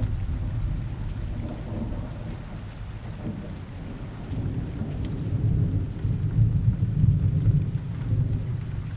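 Steady rain with low rolling thunder. The rumble eases off early on and builds again in the second half.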